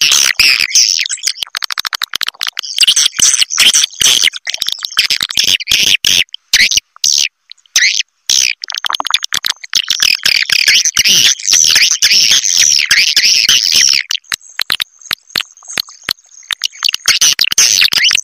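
Swiftlet (walet) calls from a roosting-call lure track, the kind played to draw swiftlets into a swiftlet house: dense, fast twittering chirps with runs of rapid clicks. Twice the calling breaks off into short gaps.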